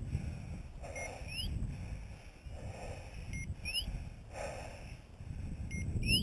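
A hunting dog's electronic beeper collar sounding over and over: a short beep followed by a rising chirp, repeating about every two and a half seconds, over wind rumble on the microphone.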